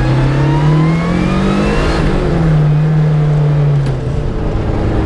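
Lancia Delta Integrale Evo rally car's turbocharged four-cylinder engine pulling hard under acceleration, heard from on board: the revs climb for about two seconds, dip at a gear change, hold high, then fall away near four seconds in.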